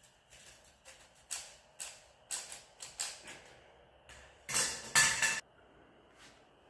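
Metal parts clinking and knocking together as they are handled, several separate clinks followed by a louder rattling clatter about four and a half seconds in.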